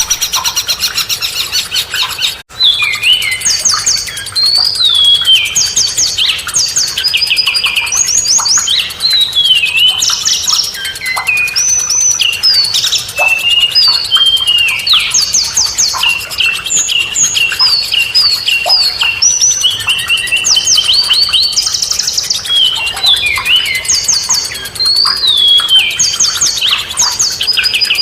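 A songbird singing a loud, continuous string of quick chirps, trills and falling whistled notes, repeated in short phrases, with a brief drop-out about two and a half seconds in.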